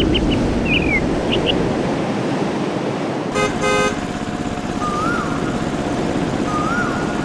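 Toy-vehicle motor noise, with a horn tooting twice in quick succession about three seconds in. A few short high chirps sound in the first second and a half.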